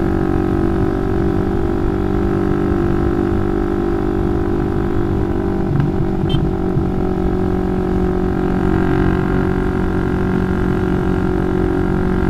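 Motorcycle engine running at steady revs through a loud aftermarket racing exhaust while riding, with wind rumbling on the microphone. The engine note brightens slightly about two-thirds of the way in.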